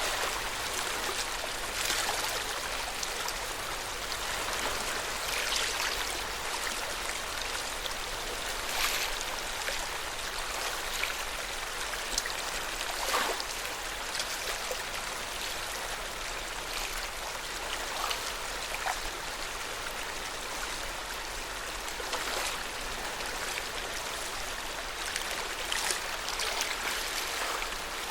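Water of Lake Yamanaka splashing gently at the shore: a steady wash with a few brief, brighter splashes now and then.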